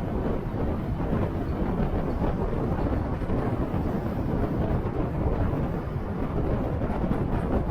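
Wind buffeting the microphone of a moving motorcycle: a steady, even low rumble with no breaks.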